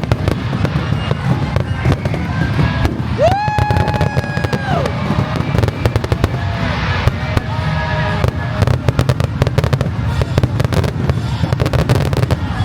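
Fireworks going off in a dense barrage: rapid crackling and popping over a steady low rumble. A whistling tone rises quickly and holds for over a second about three seconds in, and a shorter one follows near eight seconds.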